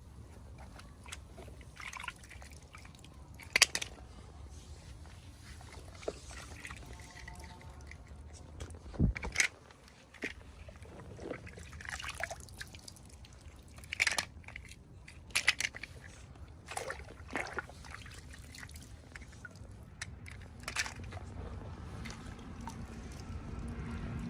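Irregular taps, clicks and rustles of small plastic toys and packaging being handled, with a few sharper clicks; a low steady hum comes in near the end.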